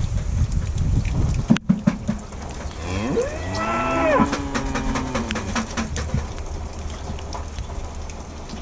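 Belted Galloway cattle mooing: one long call about three seconds in that rises and then falls in pitch, after a few sharp knocks a second or two earlier.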